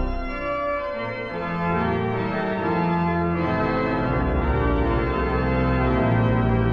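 Pipe organ playing sustained chords, with deep pedal bass notes that drop out about half a second in and come back about halfway through, ringing in a reverberant sanctuary.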